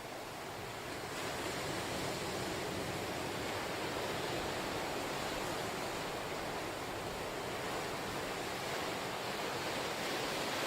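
Ocean waves breaking on the shore, a steady wash of surf that swells a little about two seconds in.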